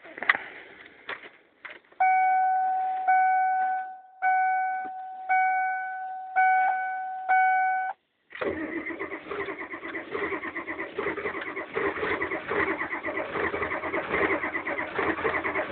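A steady tone repeats about once a second for some six seconds. Then the starter cranks the cold Chevy IDI diesel with a steady rhythm and it does not catch: a hard cold start, which the owner blames on a burned-out glow plug.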